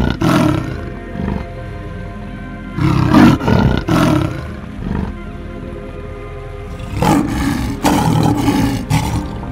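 A big cat roaring in loud bouts: one at the very start, a pair about three seconds in, and a longer run from about seven to nine seconds in. Background music with sustained notes plays throughout.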